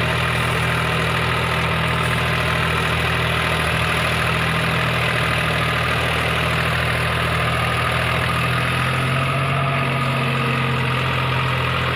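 Deutz-Fahr Agrolux 50 4WD tractor's diesel engine running steadily at a low, even speed, its note shifting slightly near the end.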